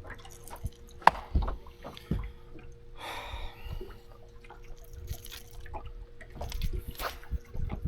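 Lake water lapping and dripping against a fishing boat's hull, with scattered small knocks and a louder sloshing splash about three seconds in, over a faint steady hum.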